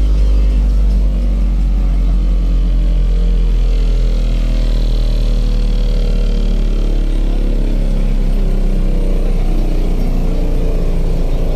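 Car audio subwoofers playing very loud, steady deep bass in an SPL (sound pressure level) bass competition.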